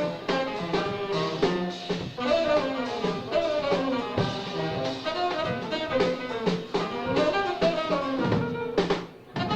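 Jazz quartet playing live: tenor saxophone, piano, upright bass and drum kit. A fast, bending melodic line rides over busy drums. The band stops briefly near the end, then comes back in on a sharp hit.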